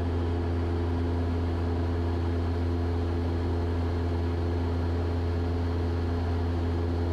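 Cessna 172's piston engine and propeller droning steadily in flight, a constant low hum with a few steady tones above it, heard from inside the cockpit.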